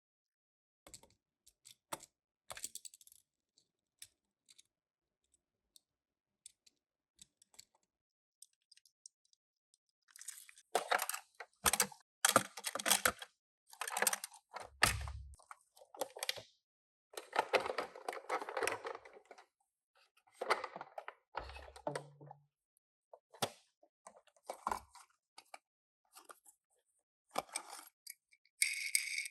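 Small cardboard toy boxes and die-cast minicars being handled: scattered light clicks and taps, then from about ten seconds in a busier stretch of crinkling and scraping as packaging is opened, with a couple of dull knocks.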